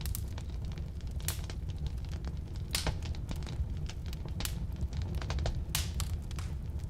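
Firewood burning in a fireplace, with a steady low rumble of the flames and irregular sharp crackles and pops, the loudest about a second and a half in, near three seconds, past four seconds and near six seconds.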